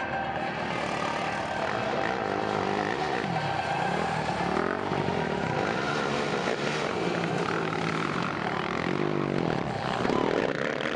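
Motocross motorcycle engines revving, several at once, their pitch rising and falling over and over.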